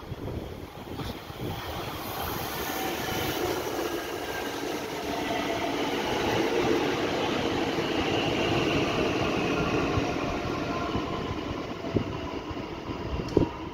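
A red regional electric multiple unit runs past along the far platform track. Its running noise grows louder as it comes alongside, with a faint whine, then fades as it moves away. Two sharp knocks sound near the end.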